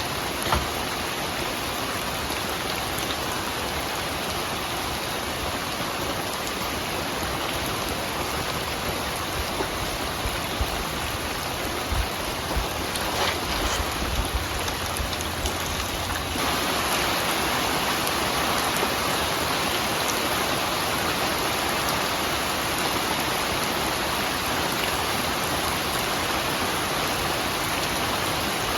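Steady rain falling, a dense even hiss with a few low thuds, which turns a little louder and brighter about halfway through.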